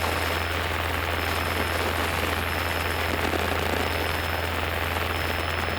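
Cessna 172's piston engine and propeller droning steadily in cruise, heard from inside the cockpit.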